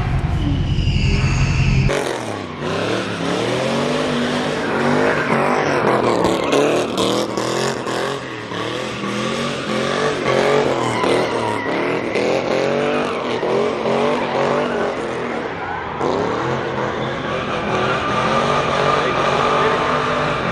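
Several car engines revving hard, their pitch rising and falling over and over and overlapping, with some tyre squeal. A heavy low rumble fills the first two seconds before the revving takes over.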